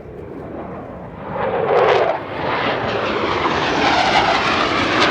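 F-16 Fighting Falcon fighter jet flying past, its single jet engine's roar swelling loud with a sweep that drops in pitch about two seconds in as it passes, then a sustained roar.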